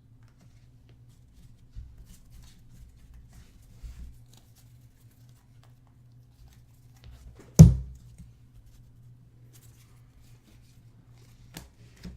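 Soft rustling and ticking of trading cards being handled and sorted on a table, over a steady low hum. One loud thump comes about seven and a half seconds in.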